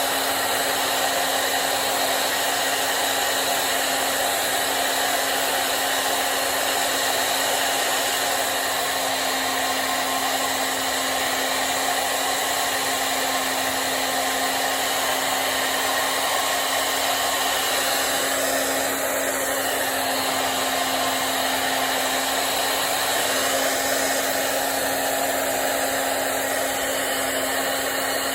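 Hair dryer blowing steadily, a constant rush of air over a low motor hum.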